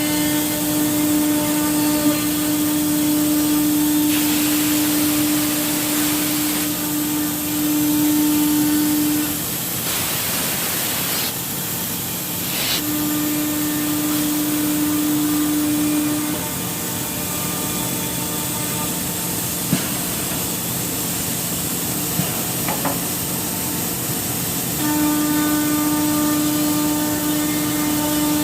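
CNC router spindle running and cutting wood, a steady high hum with overtones over a continuous hiss of cutting. The hum drops away and comes back several times as the machine works through the cut, with a few faint clicks.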